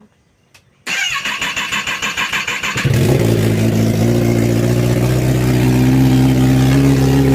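Kawasaki ZX-10R's inline-four engine with an SC-Project exhaust being started: the starter cranks with a fast, even pulsing for about two seconds, then the engine catches and settles into a steady idle.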